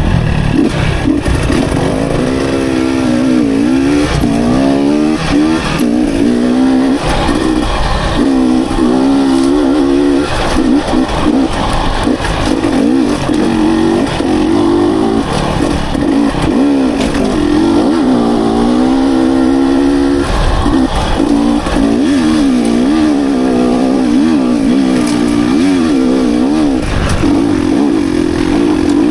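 Dirt bike engine being ridden hard on a trail, its pitch rising and falling again and again as the throttle is worked on and off.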